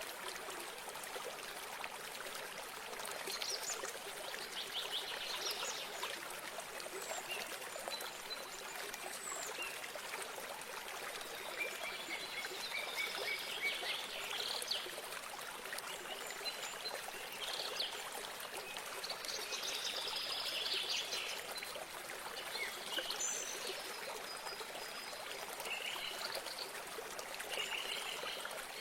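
A small stream of water trickling and splashing steadily, with birds chirping and trilling on and off over it.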